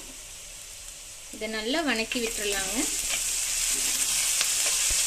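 Onions, curry leaves and ginger-garlic paste sizzling in hot oil in a kadai as a spatula stirs them, with small scrapes of the spatula on the pan; the sizzle turns loud about a second and a half in. A brief wavering voice-like sound comes just as the sizzle rises.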